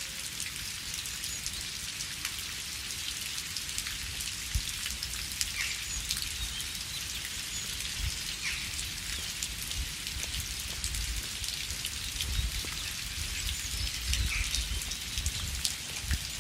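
Steady rain falling, an even hiss with many individual drops clicking close by. A low rumble comes and goes underneath, growing stronger in the second half.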